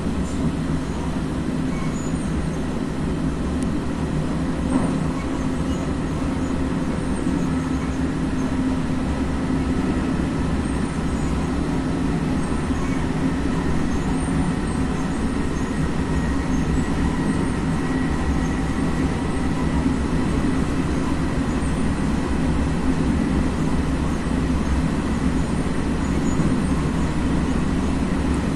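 ALe642 electric multiple unit running at speed, heard from inside the carriage: a steady rumble of wheels on the rails with a low hum and a few faint higher tones.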